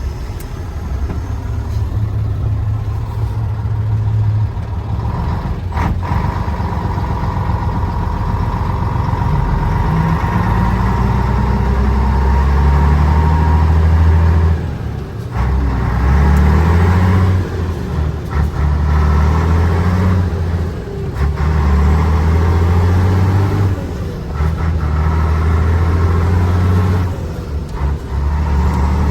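Mercedes-Benz 1518 truck's diesel engine pulling away through the gears: it revs up in each gear, and the pitch drops at each of several gearchanges in the second half.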